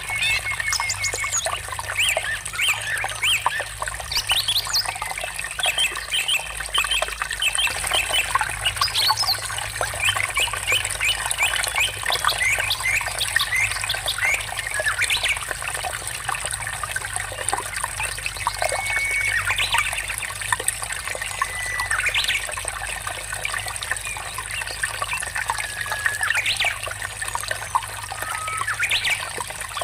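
Water trickling and splashing steadily under many birds singing: quick chirps and trills throughout, with a few longer held whistles in the second half.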